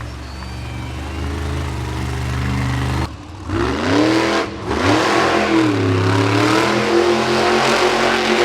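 Monster truck engine revving hard, its pitch swinging up and down several times. Before that a steady low drone cuts off abruptly about three seconds in.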